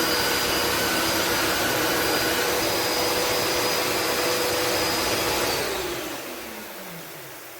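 Tineco iFloor 5 Steam wet-dry floor vacuum's motor running with a steady whine, then switched off about five and a half seconds in, its pitch falling as it winds down.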